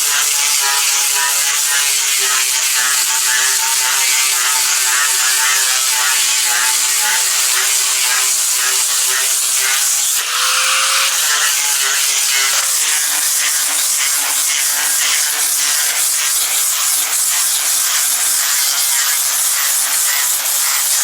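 Angle grinder with a coarse 36-grit sanding disc scuffing old paint and stain off hardwood deck boards. The motor whines and drops a little in pitch as the disc bites into the wood, and it stops briefly about ten seconds in before spinning up again.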